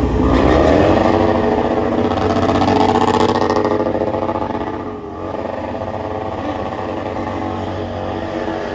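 Motorcycle engine revving up in the first second and held at high revs, then easing off about five seconds in and running on lower and steadier.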